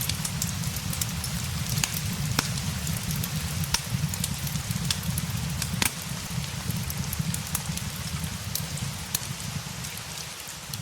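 Steady rain with a low rumble, mixed with a fireplace crackling: many scattered sharp ticks and pops, one louder pop about halfway through.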